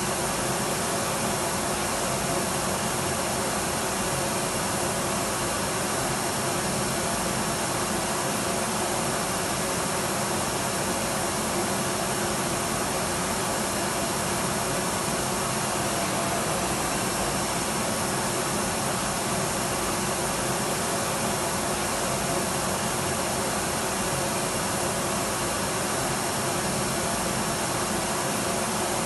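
Electric vacuum cleaner running steadily, a constant whooshing drone with a faint steady hum and whine and no change in pitch or level.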